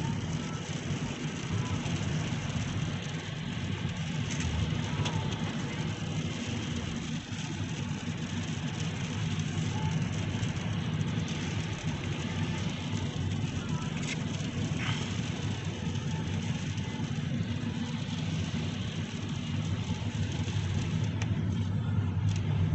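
Steady low hum of a Toyota Sienta's running car cabin under a faint even noise, with a few faint short squeaks and clicks.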